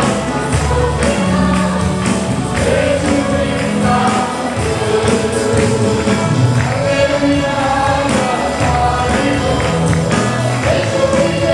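Worship music: a group of voices singing a gospel song with instrumental backing and a steady percussion beat.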